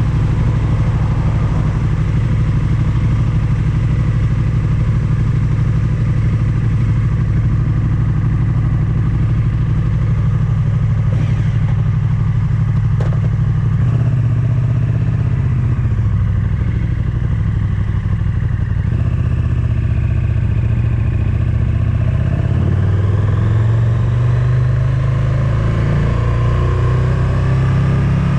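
Motorcycle engine running steadily at first. From about halfway through, its pitch rises and falls in repeated steps as it accelerates through the gears.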